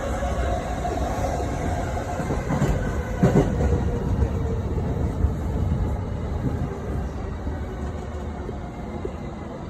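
Electric commuter train running, heard from inside the carriage: a steady rumble of wheels on rail, with a few knocks from rail joints about three seconds in. It grows gradually quieter toward the end.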